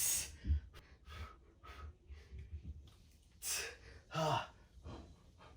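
A man breathing hard, winded from a set of shoulder presses: three heavy exhales and gasps, the one about four seconds in with a short voiced grunt.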